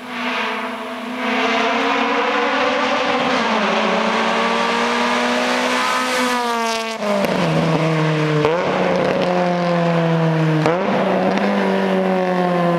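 Acura RSX Type S with a Buddy Club Spec III exhaust and header, its 2.0-litre i-VTEC four-cylinder revving hard as the car accelerates past. The engine note climbs to a peak, drops sharply about seven seconds in, then climbs and breaks twice more before falling away near the end.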